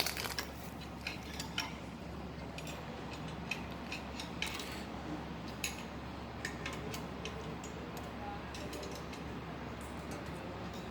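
MAXIA MX-LP220 tamarind washer-peeler with carborundum rollers running: a steady motor hum with irregular clicks and knocks from the tamarinds tumbling over the rollers.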